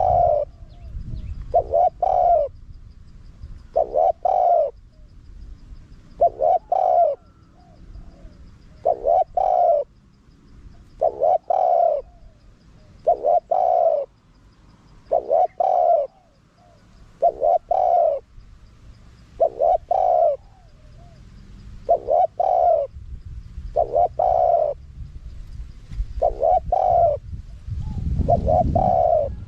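Spotted dove cooing, one short phrase of a few coos repeated about every two seconds.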